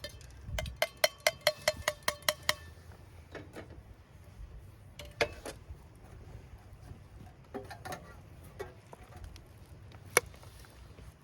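Clinking, like dishes or metal utensils striking: about nine quick, ringing clinks in the first two and a half seconds, then a few scattered clicks and knocks.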